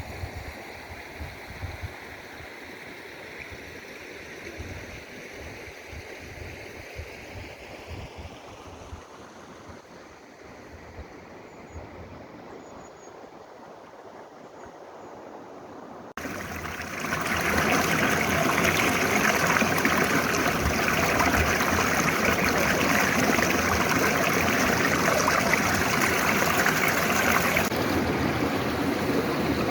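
Mountain valley stream flowing, faint at first with wind rumbling on the microphone, then, after a sudden cut about halfway through, much louder rushing water.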